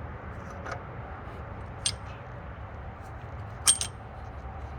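Light metallic clinks of a bolt and hand tools against metal engine parts: a click about half a second in, another near two seconds, and a louder double clink near the end, over a steady low hum.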